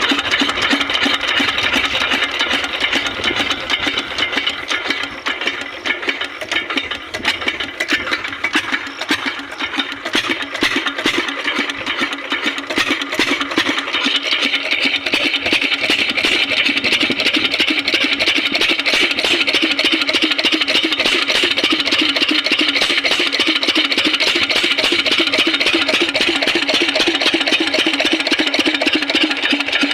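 8 hp diesel water-pump engine running with a rapid, even firing beat, somewhat unsteady and quieter in the first third, then settling into a steady, louder run.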